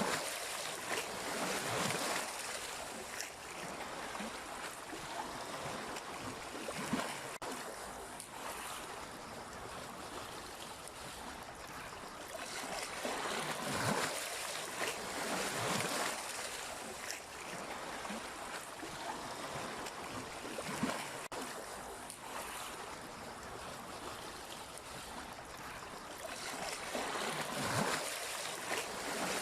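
Sea waves washing onto the shore: a continuous hiss of surf with louder splashing surges every few seconds.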